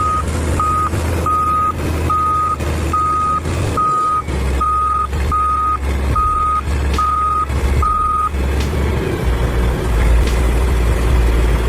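Backup alarm of a Caterpillar 140K motor grader beeping at an even pace, about a dozen single-tone beeps, stopping about eight seconds in, over the steady low rumble of the grader's diesel engine working.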